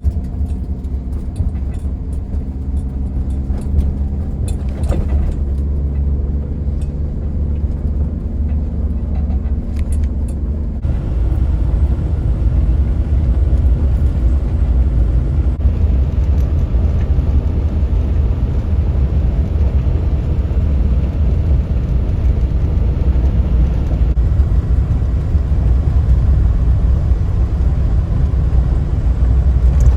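Suzuki Jimny JA11's small three-cylinder turbo engine and road noise while driving: a steady low rumble that shifts slightly at a few cuts.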